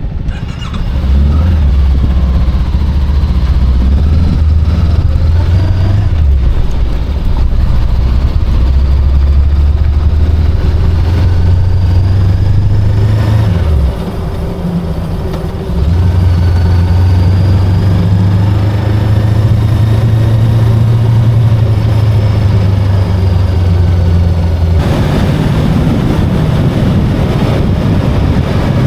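VOGE 525DSX motorcycle's parallel-twin engine running under way, holding a steady note with a few shifts in pitch. About halfway through the note drops off briefly as the throttle eases, then picks up again. More rushing wind and road noise joins near the end.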